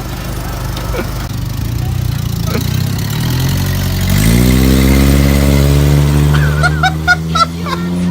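A 1993 Ford Mustang's 2.3-litre four-cylinder engine running, its revs climbing about three seconds in and then holding steady at a higher speed as the car moves off. A brief voice is heard near the end.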